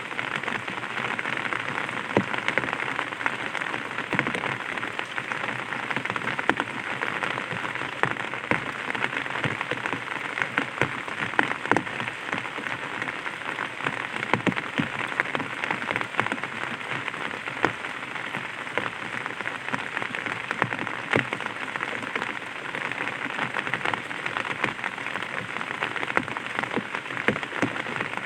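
Light rain pattering on an umbrella: a steady hiss of rain with many scattered, irregular drop ticks on the canopy.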